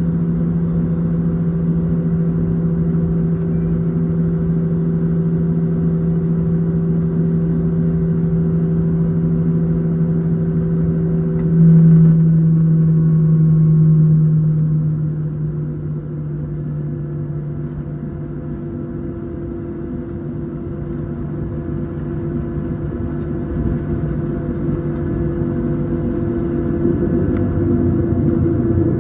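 Boeing 737-700 engines (CFM56-7B turbofans) heard from inside the cabin during taxi: a steady drone with a low hum. It swells briefly about twelve seconds in, eases off a few seconds later and builds again near the end as thrust is varied.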